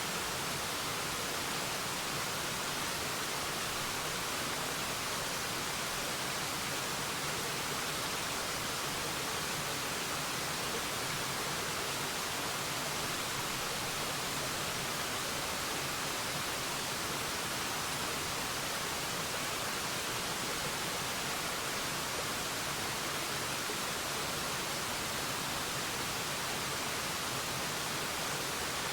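Waterfall: a steady, unchanging rush of falling water, an even hiss weighted toward the high end.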